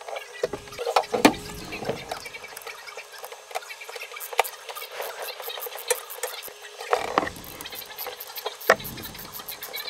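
Hand tools clinking and knocking on metal during alternator replacement work, with a few heavier thuds and a rapid, even ticking in the second half.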